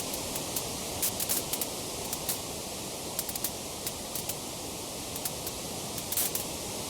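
Wood fire burning in a fireplace: a steady hiss with irregular sharp crackles and pops from the burning wood, bunched in quick clusters about a second in and again near the end.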